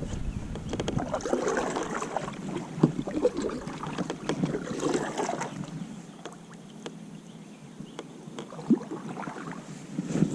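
Water swishing and splashing around a kayak, with scattered light knocks and clicks against the hull, busier in the first half and quieter after about six seconds.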